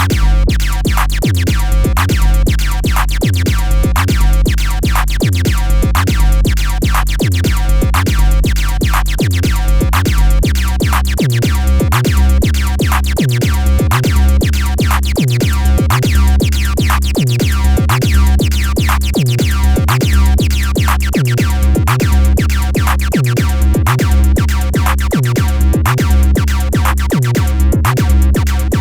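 Synthesizers playing electronic music: a drum-machine beat, a fast run of repeated notes and a pulsing bass line that steps up in pitch about eleven seconds in.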